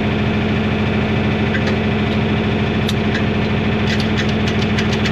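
John Deere 4000 tractor engine idling steadily, with a few light clicks in the second half.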